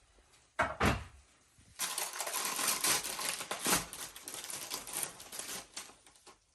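A thump, then several seconds of dense clattering and crackling, like objects being handled or tipped out.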